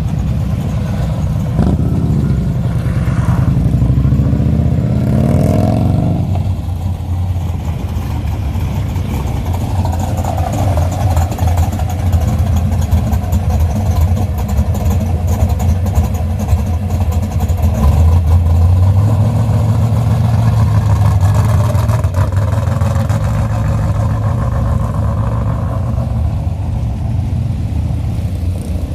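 Hot rod engines rumbling as cars drive away, with one engine revving up, its pitch rising, between about two and six seconds in, then a steady deep rumble.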